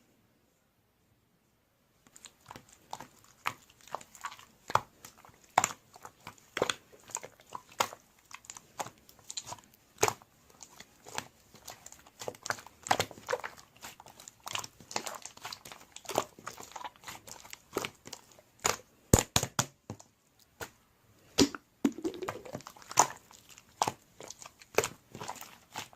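Slime being squished, pressed and stretched by hand, giving a run of irregular sticky clicks and pops. It starts about two seconds in, after near silence.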